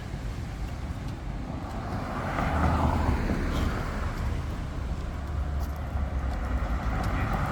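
Street traffic: a motor vehicle's engine rumble grows louder about two seconds in as it passes close, over steady road noise.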